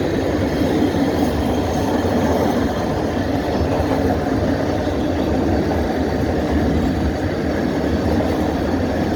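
Train running on the rails: a steady low rumble that stays even throughout.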